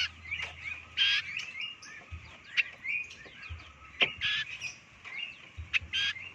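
Young pied triller (kapasan kemiri) calling: a quick series of short chirps, with three louder, noisier calls about one, four and six seconds in.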